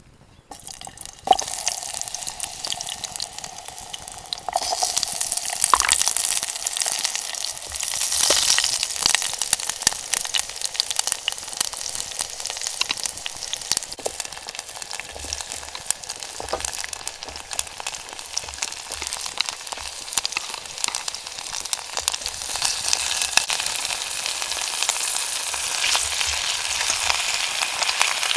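Food sizzling as it fries in a hot pot for a stew. It starts suddenly about a second in with a sharp clack and swells louder a few seconds later.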